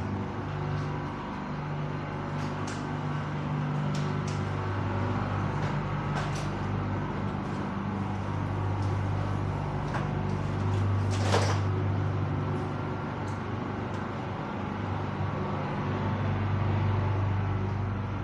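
Interior of an Airport Rail Link electric commuter train under way: a steady low hum from the running train, with scattered clicks and creaks and a short hiss about eleven seconds in.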